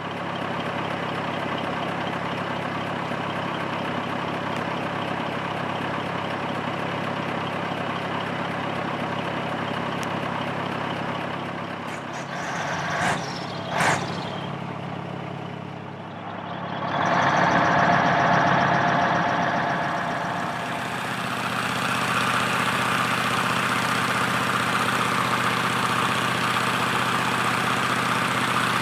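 A large engine running steadily. About halfway through there is a short dip with two brief sharp sounds, after which the engine grows louder and settles into a different steady note.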